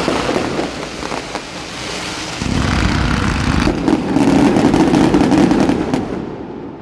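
Fireworks going off in quick succession: a run of crackling bursts, then about two and a half seconds in a heavy, continuous rumble of booms that lasts several seconds and fades near the end.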